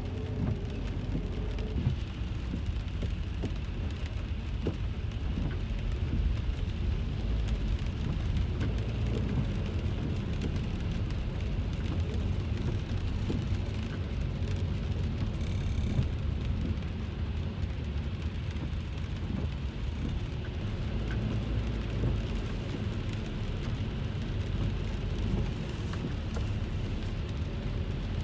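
Rain pattering on a car's roof and windscreen, heard from inside the cabin over the steady low rumble of the car driving. A brief high tone sounds about halfway through.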